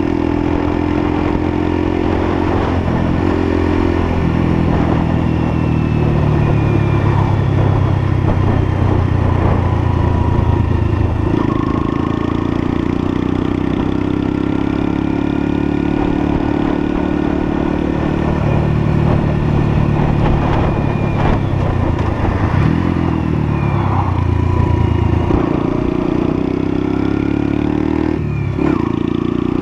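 Lexmoto LSM 125 motorcycle's 125cc engine running on the move, its pitch shifting up and down several times with throttle and gear changes, over a rush of wind and road noise.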